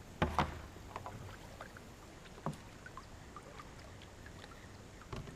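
A few sharp knocks on a fishing kayak's hull, two close together at the start and one about halfway through, with scattered small clicks and a faint background hiss.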